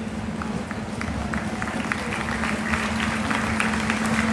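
Grandstand crowd clapping: scattered claps at first, building to steady applause, over a steady low hum.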